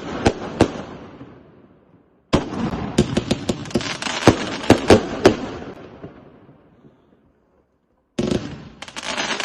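A fireworks salute cake firing a fast run of sharp salute bangs, each trailing off in echo. The volleys die away and start again twice, shortly after two seconds and about eight seconds in.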